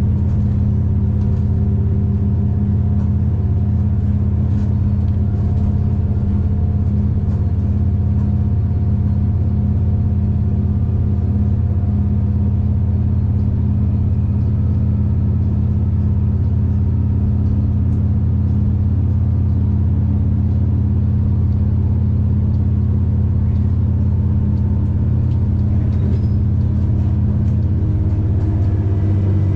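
V/Line diesel passenger train running at steady speed: a continuous low drone of the engine and running gear that holds level with no clear changes.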